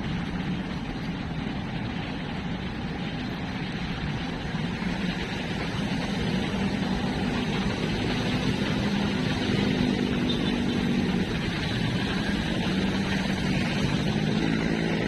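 Steady engine noise of a motor vehicle, a low hum that becomes more distinct in the second half.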